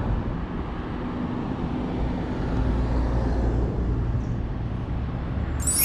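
Steady road traffic noise with a low rumble, as heard on the move outdoors. Near the end a bright ringing ding cuts in and rings on.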